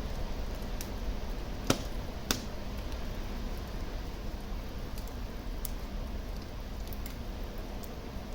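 Wood fire crackling in a fireplace: a steady low rumble and hiss of burning with scattered small pops, and two sharp, louder pops about half a second apart near the start.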